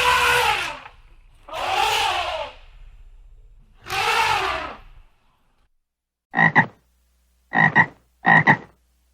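An animal's calls: three long, drawn-out calls that rise and fall in pitch, then, after a short gap, three short, sharp calls near the end.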